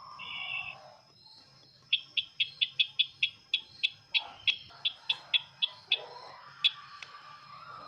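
Sisintar ladang bird call played as a trapping lure: a short buzzy phrase, then a quick run of sharp ticking notes, about fifteen in four seconds, and one more tick near the end. A faint steady high tone sits underneath.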